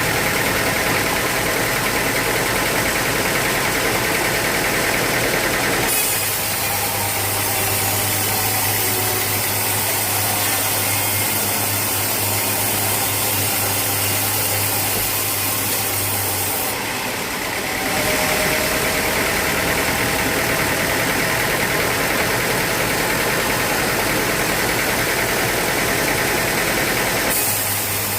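Sawmill machinery running steadily, with its sound changing abruptly several times between a deeper hum and a brighter, hissier noise.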